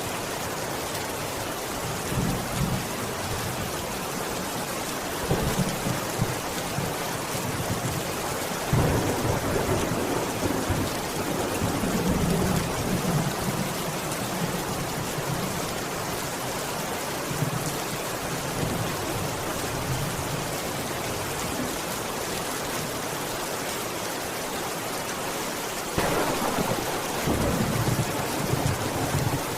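Steady rain falling, with low rolls of thunder rumbling through it several times, the longest about a third of the way in and another near the end.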